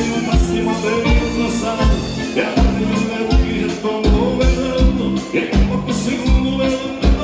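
Live gaúcho dance band playing an instrumental passage: accordion-led music over a bass line and a steady, evenly repeating kick-drum beat.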